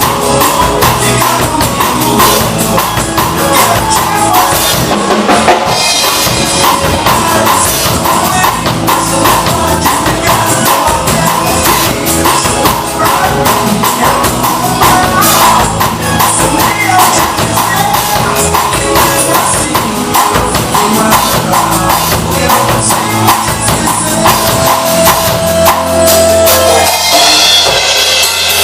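Drum kit played along to a recorded song, a steady beat of bass drum, snare and cymbals over the band and singing. Near the end the beat gives way to a held low note and ringing cymbals.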